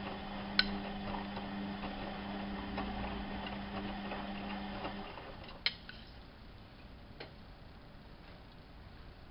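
Bauknecht WAP 6460 washing machine running with a steady hum that stops about five seconds in. A sharp click comes near the start, a louder click shortly after the hum stops, and a fainter one a moment later.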